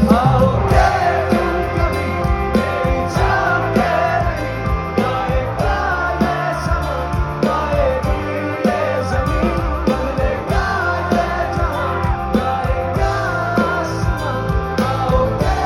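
Hindi rock band playing live: drums and bass under guitars, with a wavering, bending lead melody on top.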